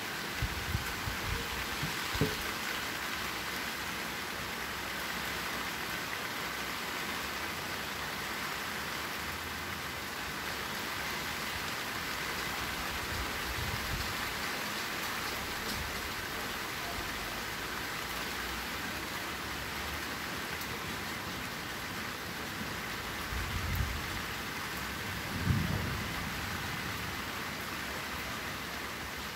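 Steady rain falling on garden foliage, an even hiss, with a few brief low thumps scattered through it.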